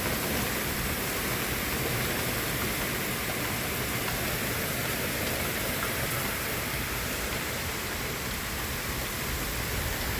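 Heavy thunderstorm rain falling in a steady downpour, an even hiss with no breaks.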